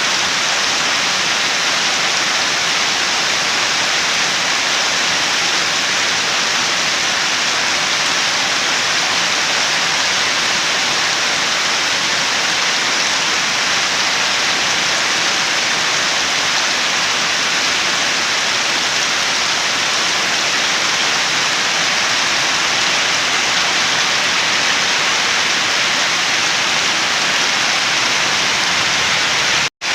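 Steady rain falling, an even hiss, with a momentary dropout to silence just before the end.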